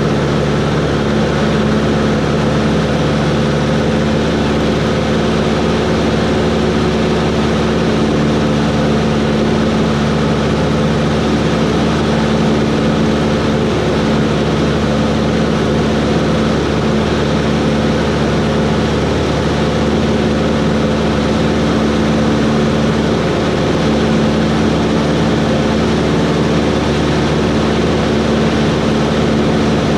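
Cessna 140's air-cooled flat-four engine and propeller running steadily at constant power, a loud, even drone with no change in pitch.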